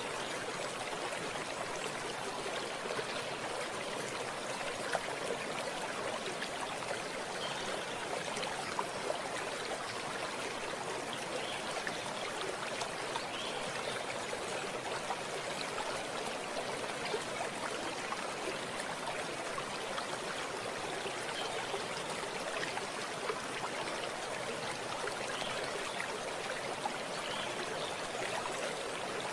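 Running water flowing steadily, an even rushing with small trickling splashes.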